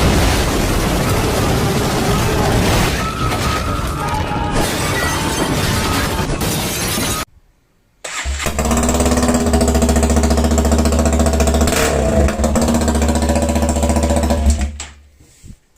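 A loud, noisy crashing sound lasting about seven seconds, then a brief silence. After that, a Benelli Motobi 200 Evo's single-cylinder engine idles steadily through its aftermarket exhaust for about seven seconds.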